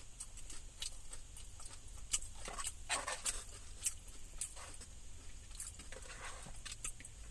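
Close-up mouth sounds of a person chewing a mouthful of Totchos, tater tots with chili and nacho cheese: soft wet smacks and clicks at an uneven pace.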